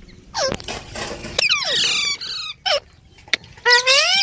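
Pet Indian ringneck parrots squawking and chattering: a harsh screech, then a quick run of falling chirps, and a rising call near the end.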